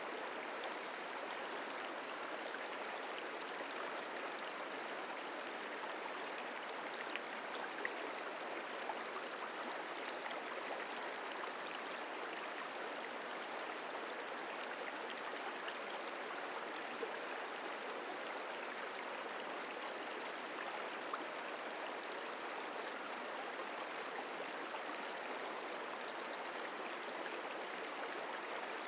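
Merced River flowing, a steady rushing and babbling of water.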